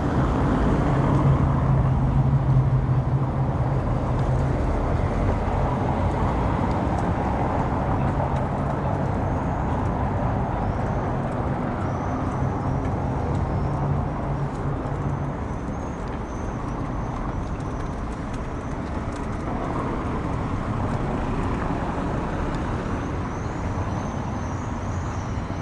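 Steady rumble of riding a bicycle along a town street, with the low hum of a motor vehicle's engine through roughly the first half.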